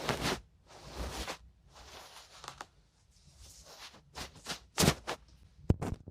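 Ear-cleaning ASMR: scraping and rubbing strokes close to the microphone. A few soft strokes are followed, from about four seconds in, by quicker sharp scratchy clicks.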